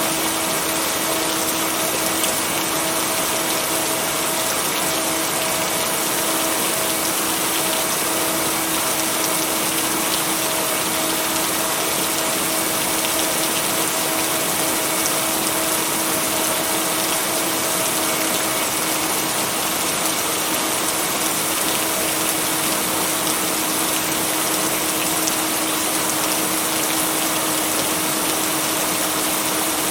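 Steady rain falling as an even wash of noise, with a faint steady low tone underneath.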